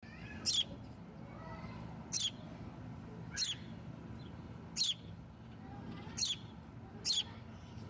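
Baby birds chirping for food: six short, sharp, high-pitched chirps about every second and a half, with fainter sliding chirps in between, over a low steady hum.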